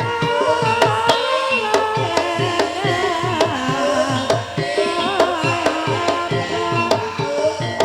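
Javanese ebeg dance music: kendang hand drums playing quick strokes that each bend down in pitch, about three or four a second, under a wavering melody line.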